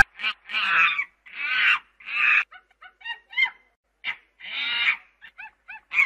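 Monkey calls: after a sharp click at the start, a run of harsh screeches, each under a second, broken by strings of short high chirps, with another screech near the middle and a quick series of chirps near the end.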